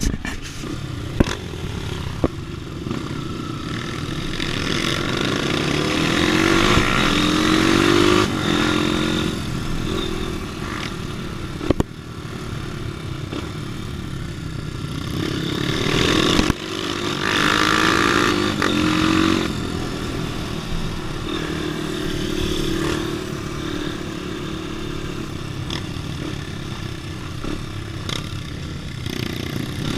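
Trail dirt bike engine running under load while riding, rising in pitch as the rider opens the throttle several times. Sharp knocks and clatter are heard from the bike over rough ground, the loudest one near the middle.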